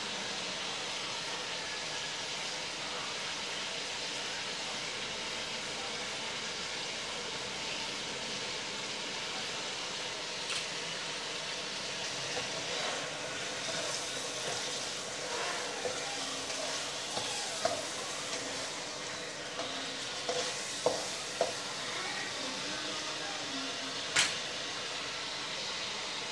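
Chicken wings sizzling steadily in a soy and oyster sauce in a nonstick wok, with a few short clicks and scrapes of a spatula against the pan in the second half.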